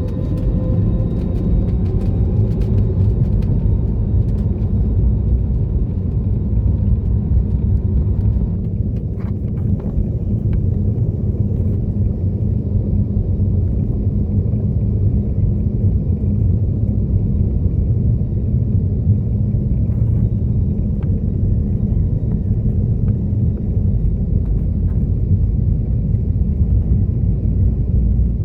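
Cabin noise of an Airbus A320neo with Pratt & Whitney geared turbofan engines during takeoff: a loud, steady low rumble of engines and runway, with a faint engine whine rising and then fading in the first eight seconds or so.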